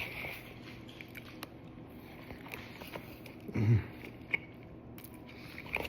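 Person biting and chewing food: faint mouth clicks and chewing sounds, with a short closed-mouth "mm" about three and a half seconds in.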